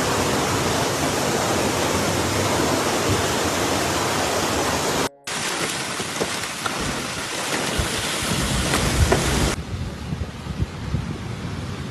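Loud, steady rush of water noise from a flash flood: heavy rain and fast-flowing floodwater. It drops out for a moment about five seconds in, returns with a few short knocks, and turns duller about ten seconds in.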